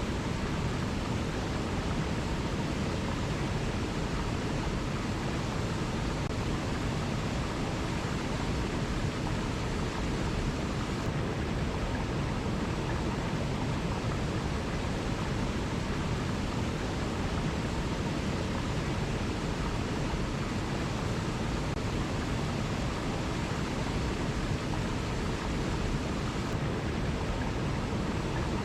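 Waterfall: a steady, unbroken rush of falling water, even throughout with no surges.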